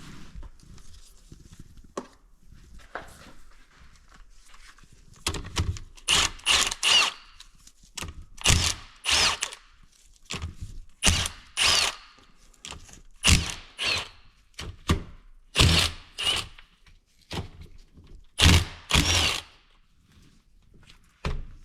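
Handheld power tool, a drill or driver type, spinning off engine fasteners during the engine teardown. It runs in about fourteen short whirring bursts, mostly in pairs, from about five seconds in until near the end, with a few small clicks before.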